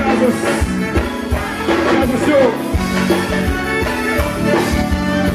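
Live forró band playing, with a steady bass-drum beat under held keyboard or accordion chords.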